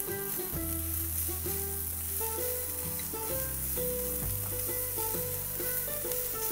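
Chopped onion, bell peppers and green chillies sizzling in hot oil in a nonstick frying pan while a silicone spatula stirs them. Background music of held notes and a stepping bass line plays under the sizzle.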